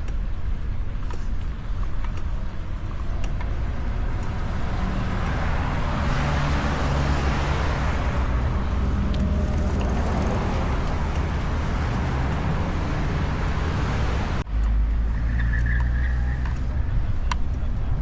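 Road traffic noise heard over a steady low rumble of wind on the microphone, with a broad rushing sound that swells and fades over several seconds in the middle, like a vehicle passing. The sound changes abruptly about three-quarters of the way in.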